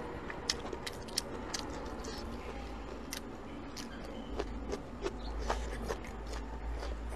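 Close-miked eating: chewing with sharp, irregular mouth clicks while biting into a red chili pepper. A low rumble comes in about four seconds in.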